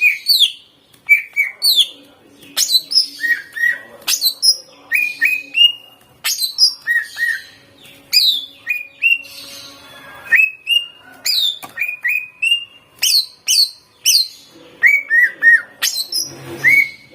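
A cucak ijo (green leafbird) singing loudly and without pause: rapid strings of short, sharp chirps and quick rising and falling whistles. This is the varied song full of other birds' phrases (isian) that keepers play to train their own birds.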